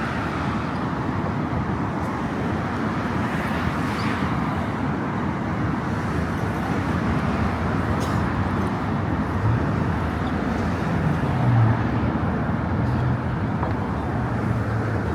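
Steady road traffic noise from passing cars, with a low engine drone coming in about halfway through.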